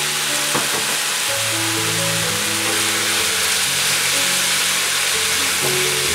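Diced chicken breast with grated carrot and onion sizzling as it fries in oil in a pan, stirred with a spatula. Background music with a simple melody plays over it.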